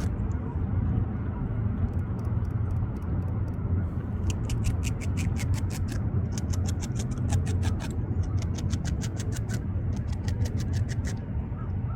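Beaver gnawing bark and cambium off a branch with its incisors: rapid strokes, several a second, in bouts of a second or so with short pauses between, over a steady low rumble.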